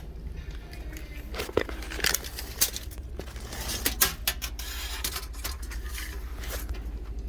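A run of clinks and knocks from small hard objects being handled, over a steady low hum.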